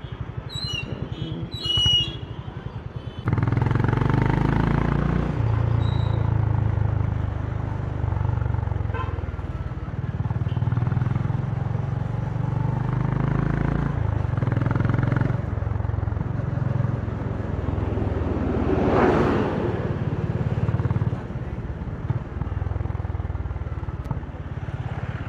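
Honda CB350's single-cylinder engine idling with an even, slow chug, then pulling away about three seconds in and running on under load, its exhaust note stepping as it goes up through the gears. A few short high horn toots sound near the start, and a brief rush of noise swells up about three-quarters through.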